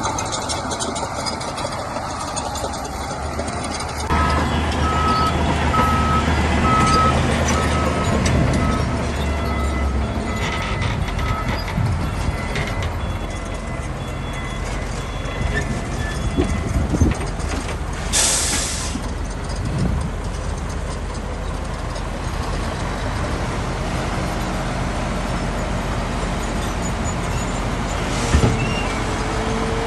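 Heavy diesel machinery running steadily, the Shantui bulldozer's engine working. A reversing alarm beeps repeatedly from about four seconds in until about twelve seconds, and a short hiss of air comes about eighteen seconds in, with a few knocks later on.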